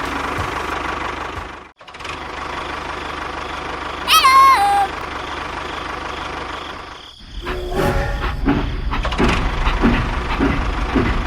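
Small engines of mini construction machines running, broken into separate clips by two sudden cuts. About four seconds in, a short whistle-like tone falls in pitch, under a second long. In the last few seconds the engine runs rougher and louder with a pulsing beat.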